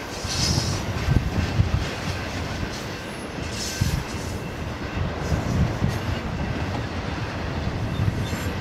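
Double-stack intermodal freight cars rolling past: a steady rumble and clatter of steel wheels on rail, with brief wheel squeals twice, about half a second and about four seconds in.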